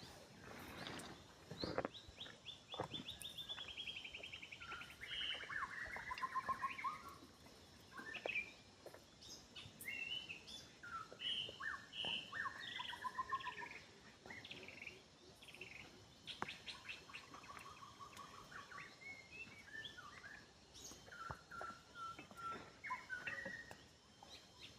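Forest birds singing and calling: several overlapping songs of quick trills, chirps and short whistled notes, with scattered light clicks and knocks.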